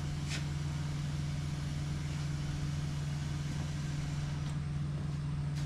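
A steady low mechanical hum at an even level, with a faint click shortly after the start.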